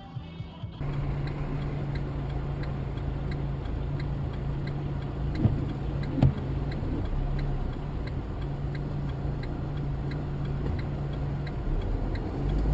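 Car cabin audio: a steady engine and road hum with a regular ticking about twice a second, and two short knocks near the middle.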